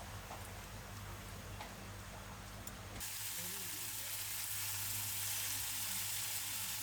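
A steady hiss with a low hum underneath; about three seconds in it turns brighter and a little louder.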